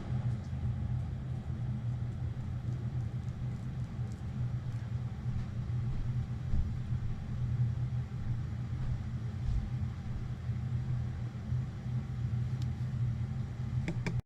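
Motorized display turntable running with a steady low hum and rumble, starting and stopping abruptly.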